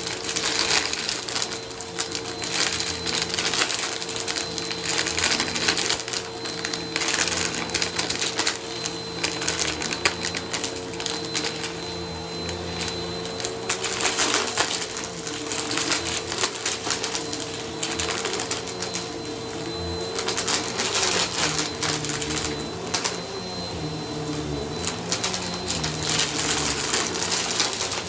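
Bissell vacuum cleaner running over a shag rug: a steady motor hum under dense crunchy crackling as debris is sucked up, swelling and easing every few seconds.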